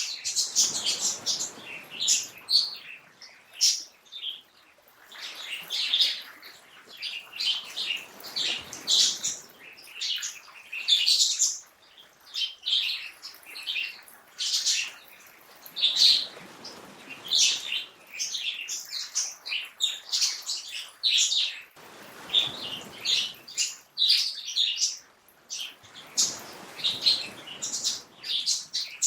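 A chorus of small birds chirping and twittering, many short calls overlapping, over a soft rushing swell that rises and fades every five or six seconds.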